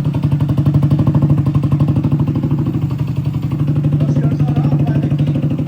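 Moped engine, newly swapped in, running steadily with a rapid, even pulse of firing strokes.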